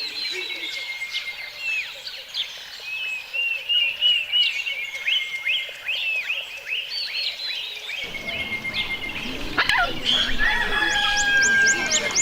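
Several birds calling and chirping in a chorus of short, falling whistled notes. About eight seconds in, the ambience changes abruptly to different calls, with held whistled tones, a sharp click, and a fast repeated trill near the end.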